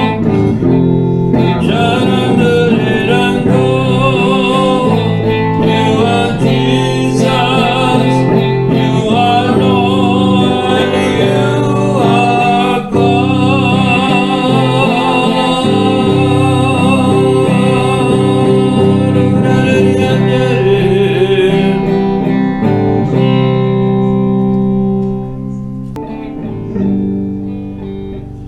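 Worship band playing a guitar-led instrumental passage between songs, with no words sung. The music dies down over the last few seconds.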